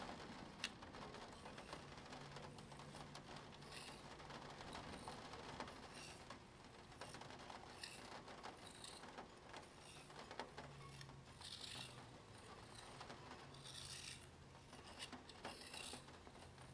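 Faint soft rubbing with scattered light ticks from a plastic Spirograph gear wheel turning against its toothed ring while a pen draws on paper.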